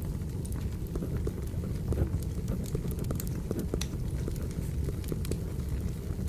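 Wood fire crackling: a steady low rumble from the burning logs with frequent scattered sharp pops and snaps. Pencil writing on paper is laid over it.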